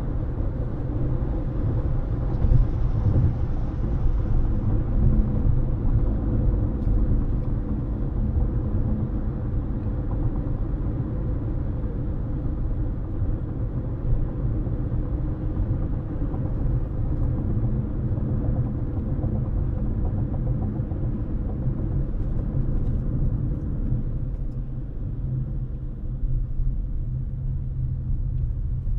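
A car being driven at steady speed: a constant low rumble of road and engine noise.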